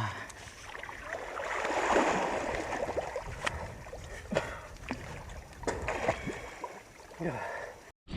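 Water splashing and sloshing as someone swims and wades in a river pool, loudest about two seconds in, with scattered sharp splashes.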